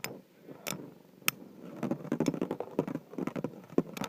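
Two Beyblade spinning tops battling in a stadium: sharp clicks as they strike each other, with a denser rattling scrape of repeated contact in the middle.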